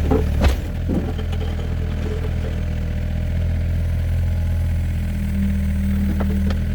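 Excavator's diesel engine idling steadily with a low hum, with a sharp knock about half a second in.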